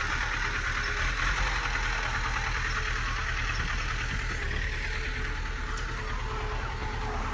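Bulldozer's diesel engine running steadily, with a constant low rumble and mechanical clatter.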